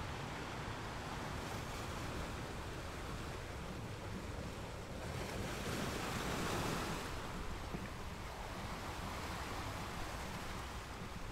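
Wind and choppy sea water: a steady rush of waves with wind on the microphone, swelling louder for a couple of seconds about five seconds in.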